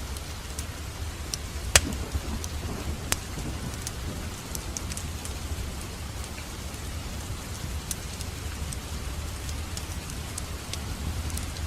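Wood fire in a fireplace crackling: scattered sharp pops and snaps over a low, steady rumble, with the loudest pop about two seconds in.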